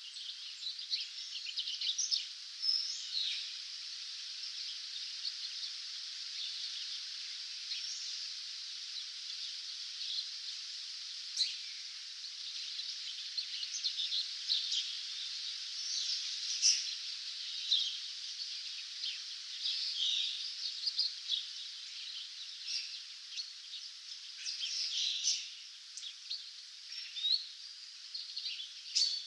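Dawn chorus of many small songbirds: overlapping chirps and short trills over a steady high hiss.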